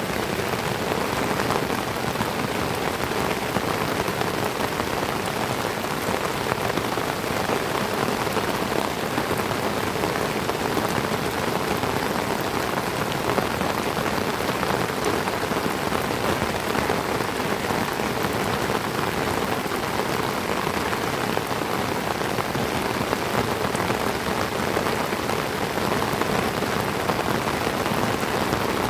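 Heavy tropical rain falling steadily on trees: a dense, even hiss of drops that does not let up.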